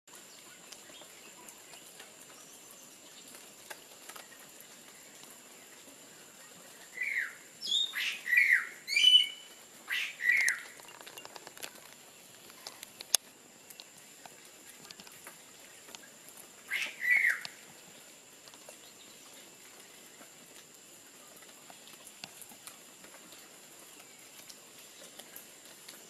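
Loud bird calls, each a short downward-sliding note: about five in quick succession over some three seconds, then two more several seconds later. A steady thin high tone runs in the background, with a few faint ticks.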